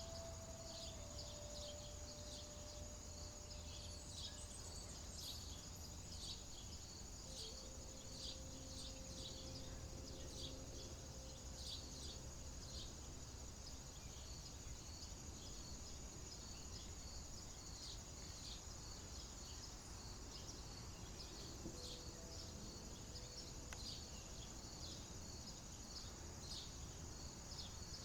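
Faint outdoor ambience: a steady high insect trill, many short high chirps scattered throughout, and a low steady rumble underneath.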